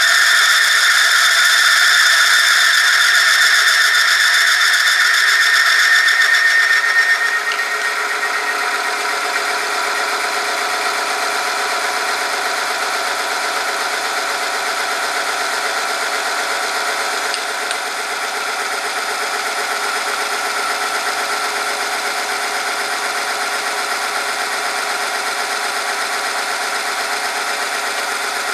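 Motor-driven oil friction-test machine running, its loaded sample rubbing against the spinning part in 5W-30 oil. A loud, high, steady squeal for about the first seven seconds, then the sound drops and changes to a quieter steady run.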